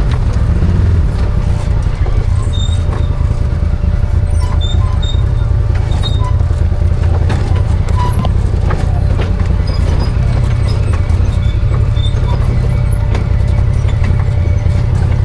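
Arctic Cat Wildcat 1000 side-by-side's V-twin engine running steadily while driving a rough trail, with frequent small rattles and knocks from the machine and the ground.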